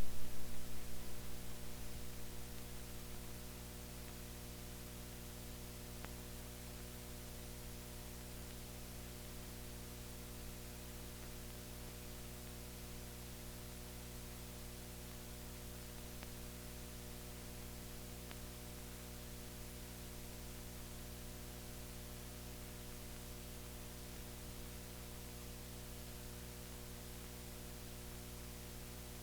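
Steady electrical hum with a layer of hiss, the background of a soundless film transfer. In the first few seconds the last of the newsreel music dies away.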